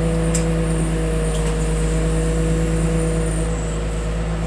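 Engine of the heavy machine lifting crushed-car bundles running steadily under load, with a faint click about half a second in.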